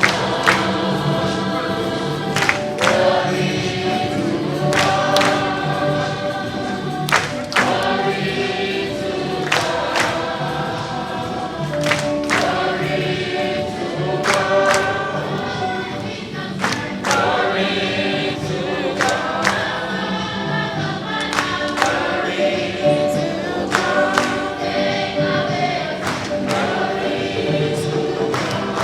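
Church choir and congregation singing a gospel hymn, with instrumental accompaniment and sharp percussive hits.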